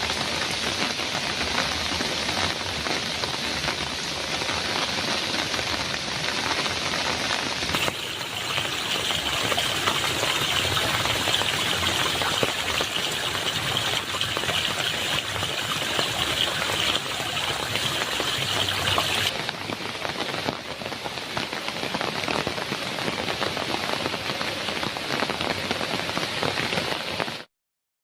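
Heavy rain on a metal roof, a steady dense hiss of drops that grows brighter and heavier from about eight seconds in until about nineteen seconds in. It cuts out to silence for a moment just before the end.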